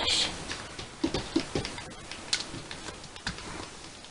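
Small plastic Hama beads clicking lightly as they are picked up and set onto a pegboard: a scattered, irregular run of soft ticks that grows fainter toward the end.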